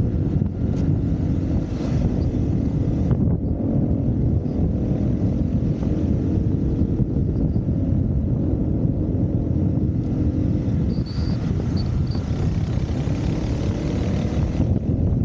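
Dirt bike engine running steadily while riding, its pitch wavering a little.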